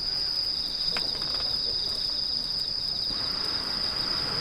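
Crickets or other night insects trilling steadily in one unbroken high-pitched drone, with a single sharp click about a second in.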